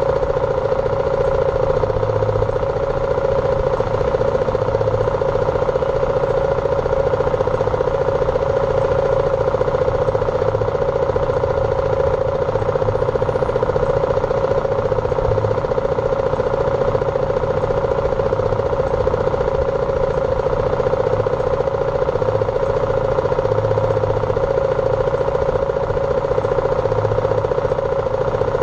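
BMW G310R's single-cylinder engine running at a steady, unchanging pitch.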